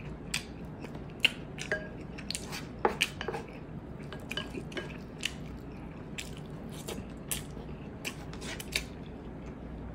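Close-miked eating: chewing, with irregular wet mouth clicks and smacks as rice and noodles are eaten, and now and then a light clink of a spoon on the dishes, over a steady low hum.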